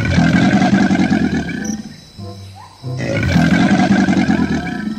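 A recorded animal roar played twice, each a rough, loud growl about two seconds long, the second a near copy of the first.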